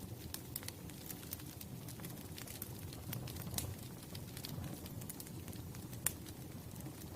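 Wood fire crackling, with sharp irregular pops over a low steady rumble of burning; one louder pop about six seconds in.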